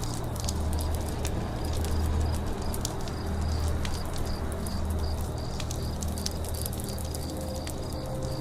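Campfire crackling, with sharp pops scattered irregularly over a steady low rumble. A faint high chirp repeats about twice a second in the background.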